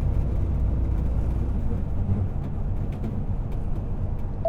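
Semi-truck diesel engine running under way, heard from inside the cab as a steady low drone.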